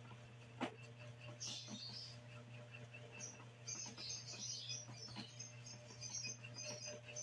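Small birds chirping in quick twittering runs, with a steady low hum underneath and a single sharp click about half a second in.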